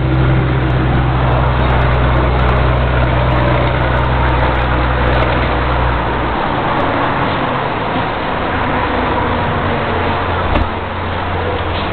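Scania truck's diesel engine pulling uphill under load, a steady deep drone over road noise; about six seconds in the deep engine note drops away, leaving mostly road and wind noise.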